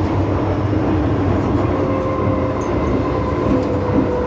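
Steady running noise heard inside an MTR M-Train electric multiple-unit car on the move, with wheels on rail and a faint steady whine over the rumble.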